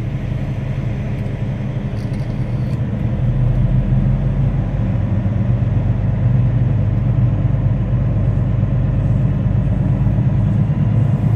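Semi truck's diesel engine running steadily with a low rumble, getting louder about three seconds in as the truck is moved to another shop bay.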